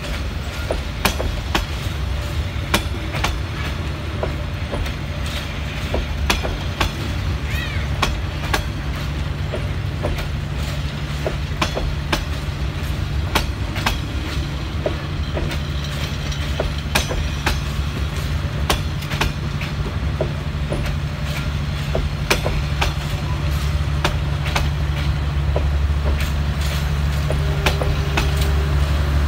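Passenger coaches of a Vietnamese express train rolling past, their wheels clacking over rail joints at uneven intervals over a steady low rumble. A low hum grows louder near the end.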